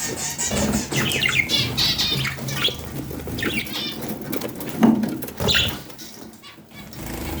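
Pet budgerigars chirping in short, gliding calls, with scattered clicks between them; the loudest call comes about five seconds in.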